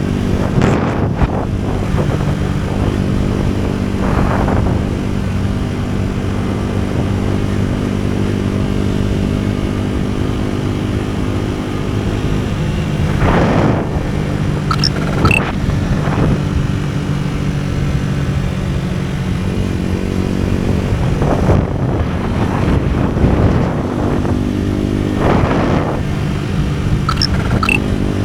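AKT NKD 125 motorcycle's single-cylinder four-stroke engine running under way, its pitch changing several times as the ride goes on, with a few brief rushing noises over it.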